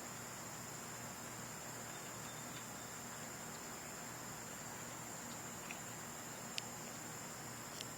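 Insects trilling steadily at a high pitch, faintly, with three short sharp high chirps in the second half.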